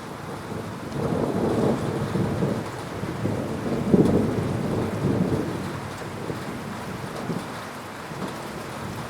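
Rolling thunder over steady rain: a low rumble swells about a second in, peaks around four seconds, then fades away while the rain keeps falling.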